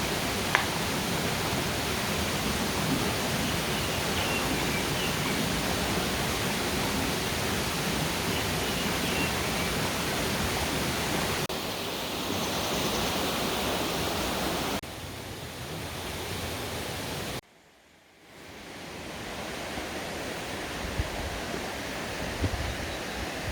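Rushing water of a mountain valley stream tumbling over rocks, a steady dense rush. The level steps down abruptly a few times, cutting out briefly about three-quarters through before fading back in.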